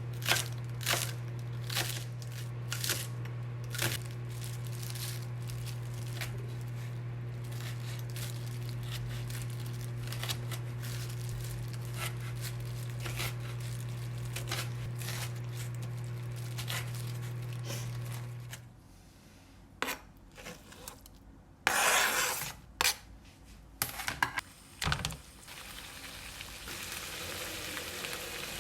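Clatter and clinks of dishes and utensils over a steady low electrical hum from a kitchen appliance; the hum stops about two-thirds of the way through. After a few knocks and a rustle, food starts to sizzle in a pan near the end.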